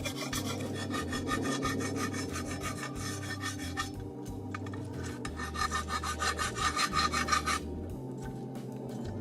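Hand file rasping on the steel frame of a caboose in quick back-and-forth strokes, filing down rough spots to prep the metal for paint. The filing pauses briefly about four seconds in, resumes, and stops near the end.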